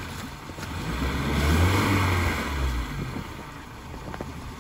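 Off-road vehicle engine revving up, swelling to its loudest about two seconds in and then easing off, with a rush of noise over it.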